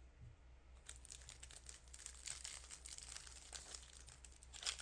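Foil wrapper of a 2024 Topps baseball card pack crinkling and tearing as the pack is opened: a faint run of dense crackles starting about a second in, with a sharper crackle near the end.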